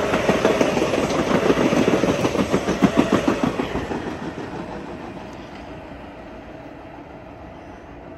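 Long Island Rail Road electric commuter train passing close by, its wheels clicking rhythmically over the rail joints. About four seconds in the sound fades away as the train recedes.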